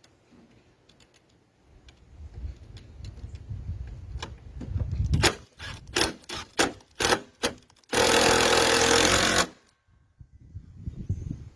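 Workshop work noises: a low rumble, then a quick run of about eight sharp knocks, then a loud, even blast of noise lasting about a second and a half that cuts off suddenly.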